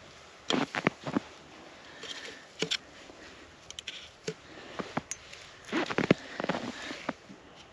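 Scattered light knocks, taps and clicks of objects being handled, about a dozen irregular strikes, a few with a short ringing tone.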